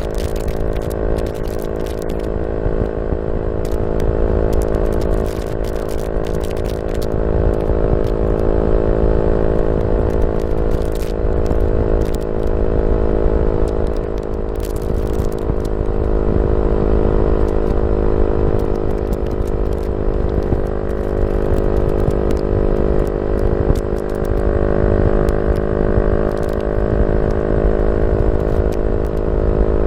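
Yamaha Y15ZR's 150cc single-cylinder four-stroke engine running through a YYPANG SD3 aftermarket exhaust, holding a fairly steady pitch that lifts slightly past the middle. Sharp crackles come and go over the first quarter or so and again a little later.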